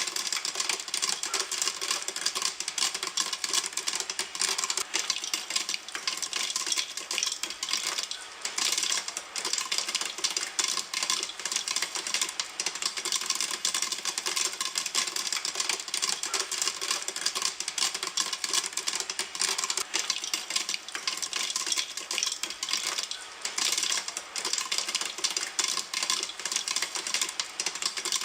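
Popcorn popping in a pan: a dense, unbroken stream of sharp pops and clicks.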